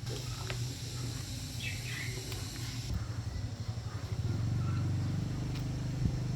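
A low steady mechanical hum that grows louder about four seconds in, with a bird chirping briefly near two seconds.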